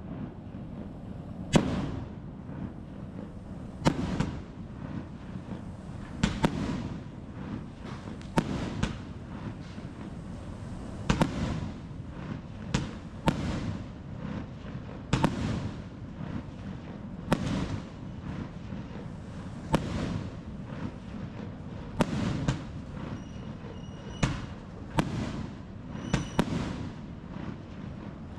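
Fireworks going off: a sharp bang every one to two seconds, each with a trailing rumble. Near the end a thin, steady high tone comes and goes between the bangs.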